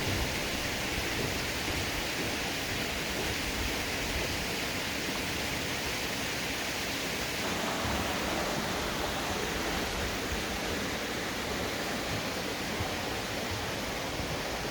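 A steady rushing hiss that stays even throughout.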